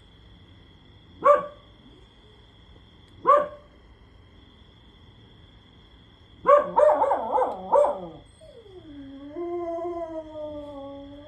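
Pet dogs barking and howling: two single sharp barks about two seconds apart, then a quick run of yelping barks, followed by one long howl that slowly falls in pitch.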